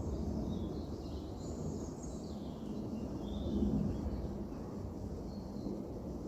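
Outdoor field recording of small songbirds giving short, high chirps and calls every second or so, over a steady low rumble.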